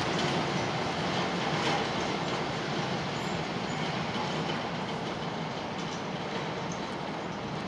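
Freight train's wagons rolling away along the track, a steady wheel-on-rail noise slowly fading as the tail of the train recedes.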